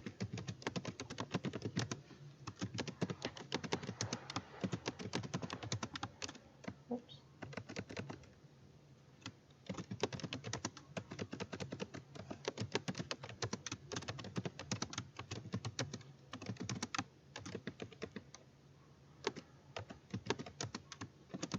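Typing on a computer keyboard: rapid bursts of key clicks with a couple of short pauses, as a title is typed into a text field.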